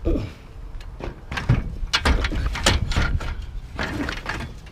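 Metal bed rails clanking and knocking as they are shifted and stacked among scrap metal: a string of irregular clatters, densest from about a second in.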